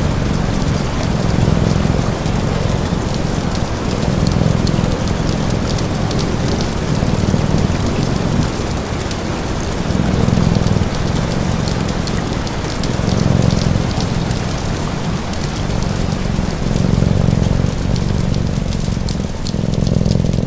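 Steady rain mixed with fire crackle and a cat purring, the purr swelling and fading in slow low pulses, roughly two to each breath.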